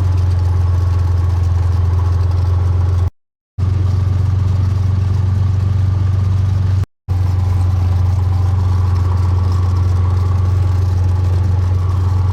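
Steady low drone of a plane's engine in flight, heard from inside the cabin. The sound cuts out completely twice, for about half a second a little after three seconds in and briefly near seven seconds.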